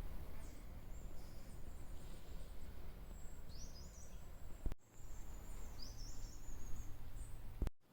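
Small songbirds singing high twittering and trilling phrases over a low, steady wind rumble, broken by two abrupt cuts, one about halfway and one near the end.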